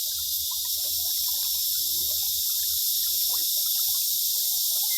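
Steady high-pitched insect chorus of tropical forest, with faint scattered short chirps beneath it.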